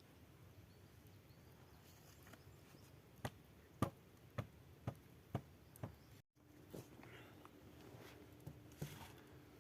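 A series of about six light knocks, roughly half a second apart, against a quiet background. It breaks off in a brief dropout, after which a faint steady hum and a few softer knocks follow.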